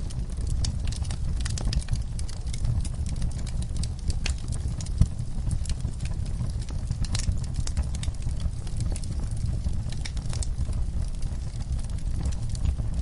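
Wood fire burning in a fireplace, crackling with irregular sharp pops over a steady low rumble of flames; one louder pop about five seconds in.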